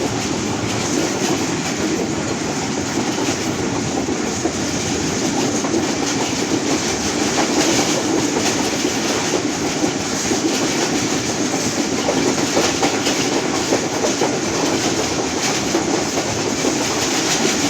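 Train running along the track: a steady rumble with the clatter of wheels over the rails.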